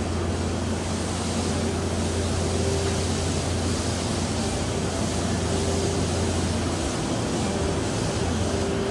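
JR East Series E257 electric train moving slowly along the platform and gathering speed: a steady rumble with a low hum, and a motor tone that comes and goes.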